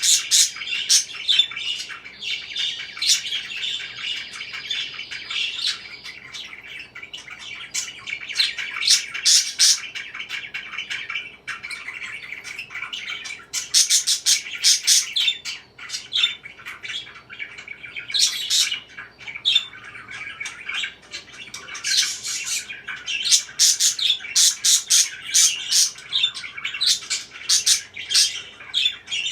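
Pet parakeets chirping and chattering without a break, with clusters of sharp, louder squawks every few seconds.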